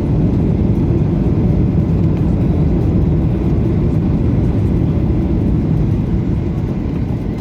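Jet airliner's steady low rumble of engines and rushing air during the landing, with no distinct knocks or changes.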